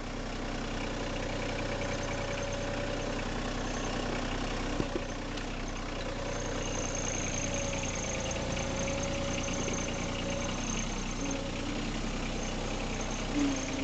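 Engine of a small loader tractor running steadily as it backs over freshly dumped pit-run gravel, packing the fill down; a faint high whine comes in about halfway through.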